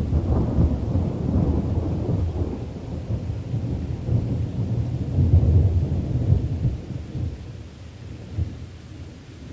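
Thunder rumbling low and deep, carrying over from a louder peak, swelling again about halfway through and then fading away, with steady rain hiss underneath.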